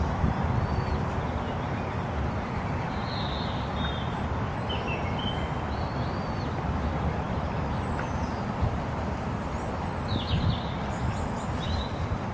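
Scattered short, high bird chirps over a steady low background rumble.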